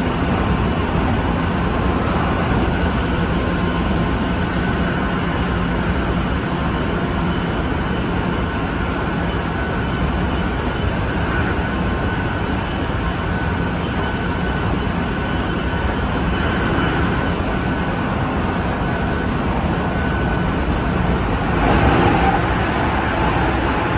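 Running noise of a Tsukuba Express TX-2000 series electric train, heard from inside the passenger car at speed: a steady rumble and roar of wheels on rail, with a brief louder swell near the end.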